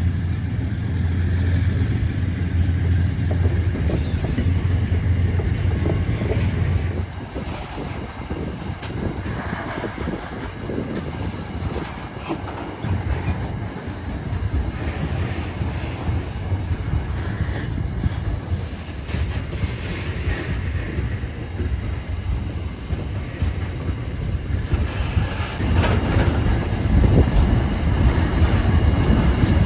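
Diesel-hauled grain train on the move: a steady low locomotive engine drone for the first seven seconds or so, then falls away. Grain wagons then roll by with a continuous rumble and a clatter of wheel clicks over the rail joints, getting louder again near the end.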